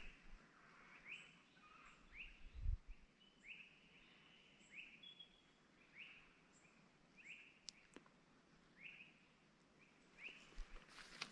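Faint bird calling over and over: short rising notes, about one a second. A low thump comes about two and a half seconds in, and a sharp click near eight seconds.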